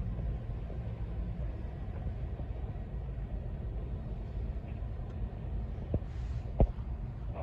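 Steady low rumble of road traffic or a vehicle running. Two sharp knocks come near the end, the second louder.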